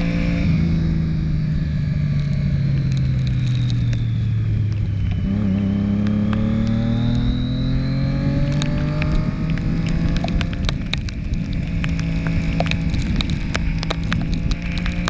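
Motorcycle engine running, its pitch falling steadily for about five seconds as it slows, then rising again as it picks up speed and holding steady. From about eight seconds in, many sharp ticks and crackles sound over the engine.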